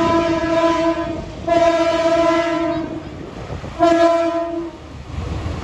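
Locomotive horn sounding three blasts: one already going that stops about a second in, a second lasting about a second and a half, and a shorter third about four seconds in. Underneath is the steady rumble of the train.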